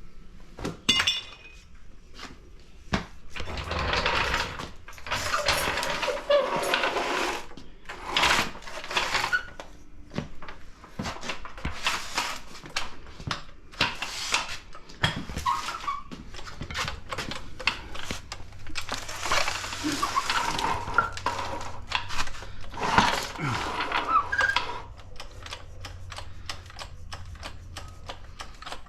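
Metal tools and car parts clinking, clattering and scraping during hands-on work on the car, with many sharp clicks and a few longer rattling, scraping stretches.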